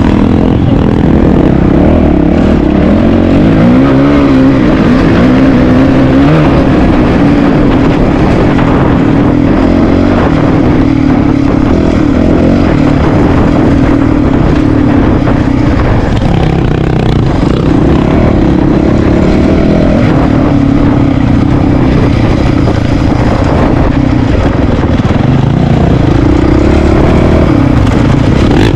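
Single-cylinder dual-sport motorcycle engine running under way, loud and continuous. Its pitch rises and falls with the throttle, with clear revving swells about four seconds in and again near the end.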